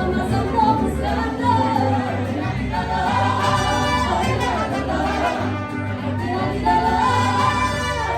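Mariachi ensemble playing a son from a medley, with melody lines over a stepping bass line.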